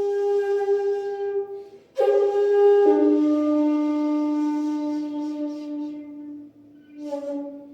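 Shakuhachi bamboo flute playing slow, long held notes with a breathy tone: one note sustained for about two seconds, a fresh attack, then a step down to a lower note held for about three and a half seconds, and a short soft note near the end.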